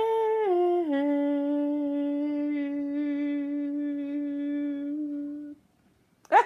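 A woman's voice singing one long held note with no vibrato, stepping down to a lower pitch about a second in and stopping abruptly near the end.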